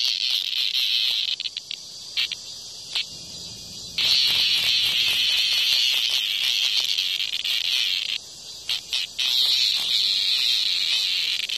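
A cicada gives a loud, harsh, high-pitched distress buzz while a hornet attacks it. The buzz cuts out twice, for one to three seconds each time, with a few short sputtering bursts in the gaps, then starts up again.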